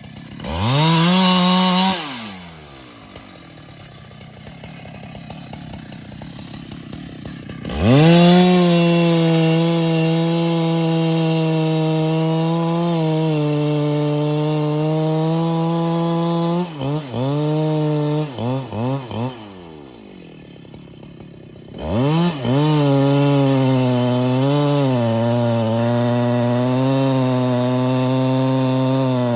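Husqvarna 395XP two-stroke chainsaw: a short rev that falls back to idle, then a long run at full throttle whose pitch dips and wavers as it cuts wood. Next come several quick throttle blips, a moment of idle, and a second full-throttle run into the wood.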